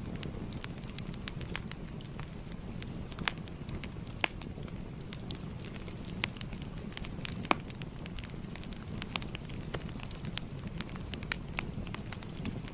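Wood fire burning: a steady low rumble with irregular sharp crackles and pops, several a second.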